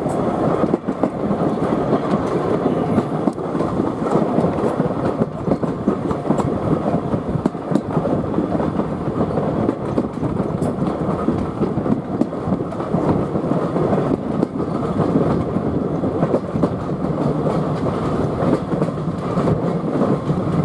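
Train hauled by steam locomotive LMS Ivatt no 41298 running along the line, heard from on board: a steady, continuous rumble of the wheels on the rails.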